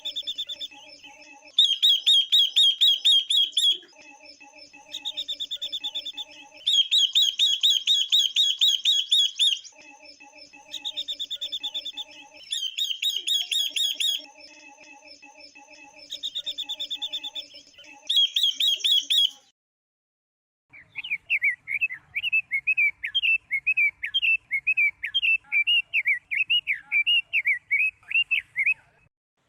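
Recorded calls of female silver-eared mesia and female red-billed leiothrix: bursts of rapid, high chirps a second or few long, separated by short pauses. After a brief silence about two-thirds through, a longer run of lower chirps.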